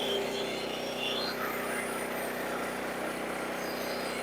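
Sawmill engine running at a steady speed with an even hum, with no change in pitch or level.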